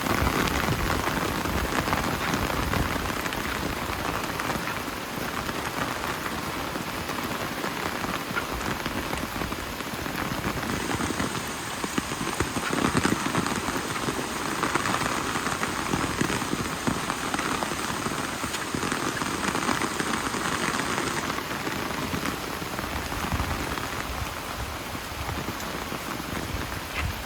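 Steady rain falling, with many separate drops heard through it. A high, steady whine joins in from about ten seconds in and stops about ten seconds later.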